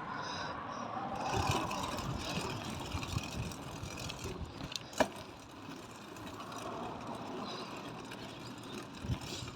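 Street traffic noise with a car engine running, swelling slightly early on, and one sharp click about halfway through.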